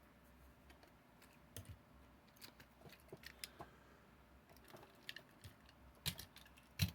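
Light clicks and taps of die-cast toy trucks and their plastic display cases being handled: scattered small clicks, with two louder knocks near the end.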